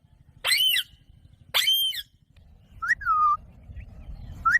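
Pet Indian ringneck parrot calling: two short shrill calls about half a second and a second and a half in, then two whistled calls that sweep up and drop back, near three seconds and at the end.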